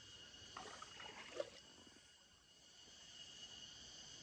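Faint, steady high-pitched trilling of an insect chorus, with a few soft rustles about a second in.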